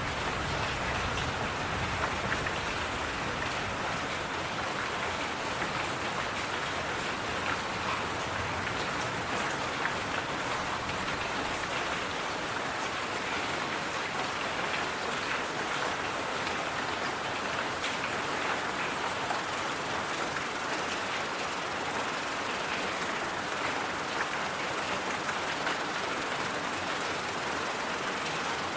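Steady white noise, an even hiss with a fine patter like rain, unchanging throughout.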